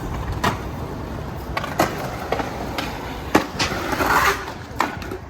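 Skateboard wheels rolling with a steady rumble, broken by about five sharp clacks of the board, with a short scraping hiss around four seconds in.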